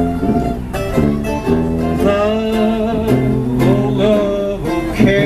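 A small acoustic band of harmonica, mandolin and tuba playing an instrumental passage in an old-time jazz and Americana style: plucked mandolin chords and held tuba bass notes under a harmonica line with bending notes.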